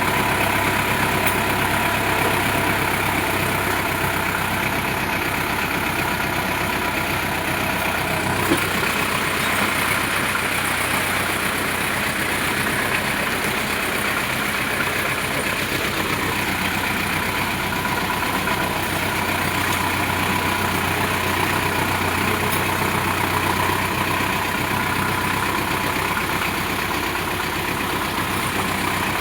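Sonalika DI 750 tractor's diesel engine running steadily, with one short click about eight seconds in.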